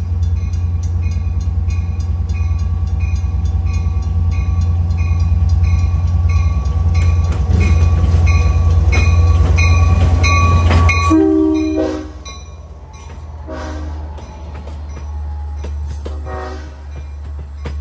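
A Long Island Rail Road DM30AC diesel locomotive approaches and passes with its engine running loud and its bell ringing about twice a second. About eleven seconds in the engine sound drops away as it goes by. Short horn blasts follow while the bilevel coaches roll past.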